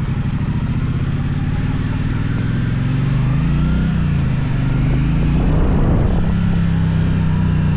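Gaokin GK1200 motorcycle engine running under way, the engine note rising and then falling about four seconds in before settling back to a steady pitch.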